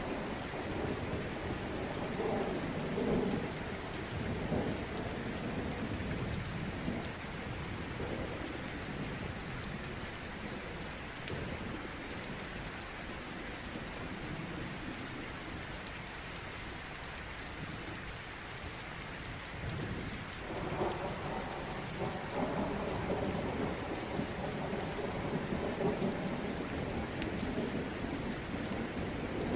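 Steady rain hiss with two long rolls of thunder, the first dying away in the opening seconds and the second building about two-thirds through and still rumbling at the end. Scattered sharp crackles from a wood fire run through it.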